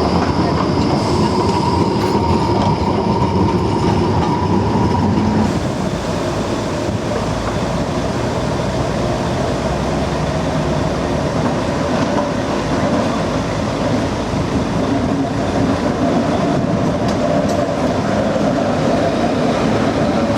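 Train running steadily along the track, with a steady whine whose pitch drops to a lower tone about five seconds in.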